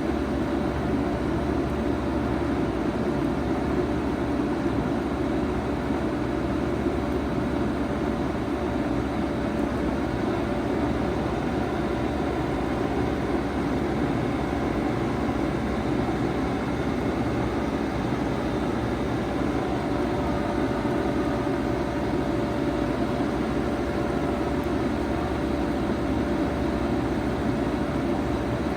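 2007 Bard 5-ton wall-hung heat pump running steadily in heat mode: a constant rush of fan air with a steady hum from the unit.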